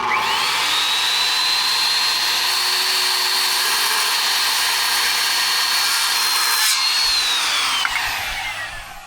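Electric power saw cutting through a 2x6 board: the motor spins up at once to a steady high whine and runs for about seven seconds, then winds down with a falling whine near the end.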